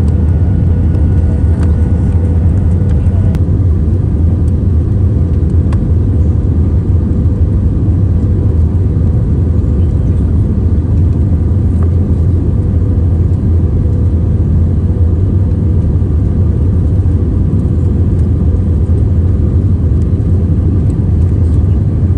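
Steady, loud low rumble of a vehicle heard from inside, unchanging throughout, with a faint steady hum above it.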